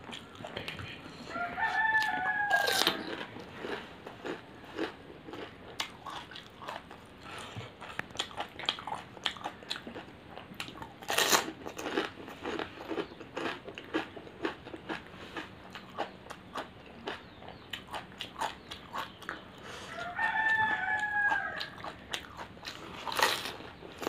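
Crisp, hollow pani puri shells being bitten and chewed with wet crunching, including three loud sharp cracks near the start, midway and near the end. A rooster crows twice in the background, a couple of seconds in and again near the end.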